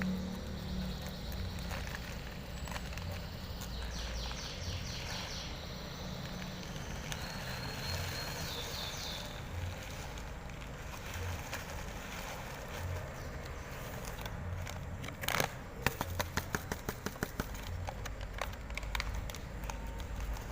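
Pleci (white-eye) birds giving two short, high trills, over a steady low rumble of background traffic. A knock at about fifteen seconds in is followed by a quick run of clicks.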